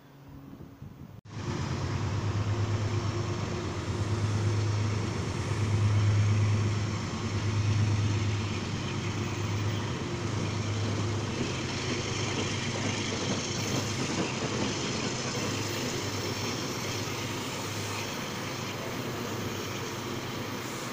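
Metro-North Railroad passenger train passing close along the platform: a steady rumble of wheels on rail with a low hum that swells several times in the first half and then settles. The sound starts abruptly about a second in.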